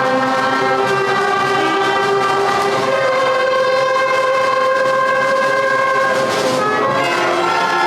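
Primary-school concert band of woodwinds and brass playing long, loud held chords, moving to a new chord about three seconds in and again near the end.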